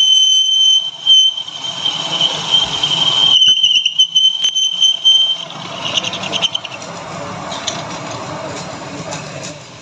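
Metal being machined on a lathe: a steady high-pitched squeal over a rough scraping noise. The squeal stops about five seconds in and the rough cutting noise goes on.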